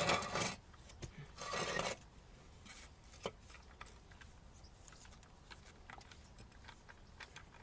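Metal parts of a strut top mount being handled and scraped apart: two short rasping bursts in the first two seconds, then faint scattered clicks.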